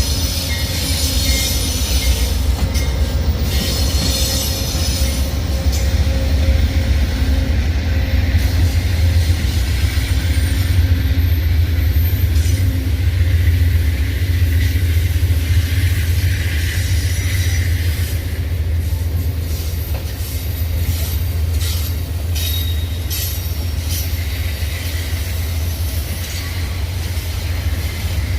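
Amtrak passenger train rolling in: a steady, loud low rumble with high wheel squeal on the rails, and a run of sharp clicks in the second half.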